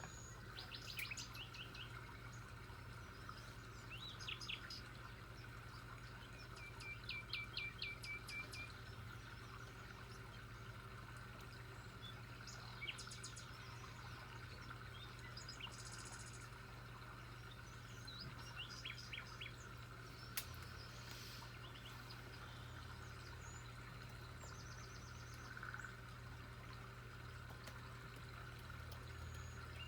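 Birds chirping now and then: short high calls, and one quick run of about eight repeated notes. Under them runs a steady faint low hum.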